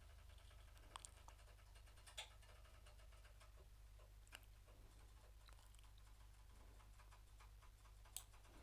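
Near silence with a steady faint hum and a handful of faint computer mouse clicks, scattered a second or more apart.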